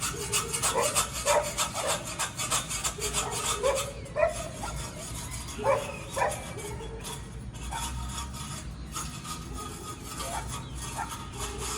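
Short animal calls repeated for the first six seconds or so, over a steady rasping, ticking background.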